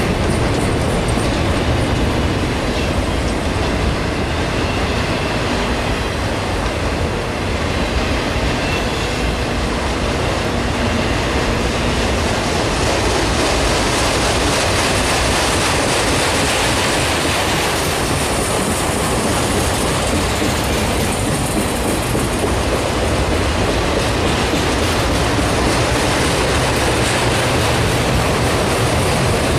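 Auto rack freight cars rolling past at close range: a steady loud rumble and clatter of steel wheels on the rails.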